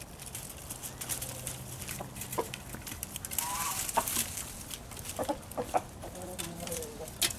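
Chickens clucking, a few short calls spread through, with some sharp clicks.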